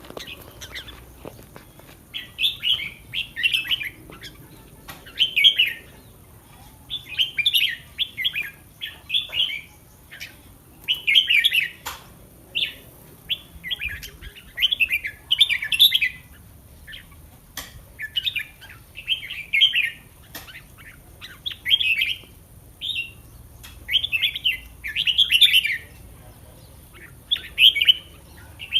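Red-whiskered bulbul singing short, bright warbling phrases again and again, with a brief pause after each one.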